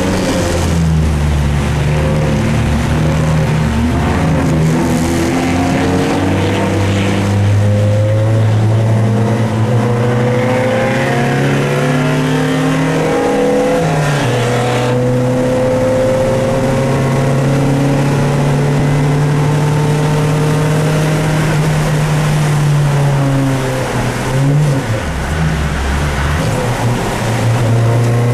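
Dodge Neon race car's four-cylinder engine heard from inside the cabin, pulling steadily with its pitch climbing slowly, dipping and recovering about halfway and again near the end, over the hiss of tyres on the wet track.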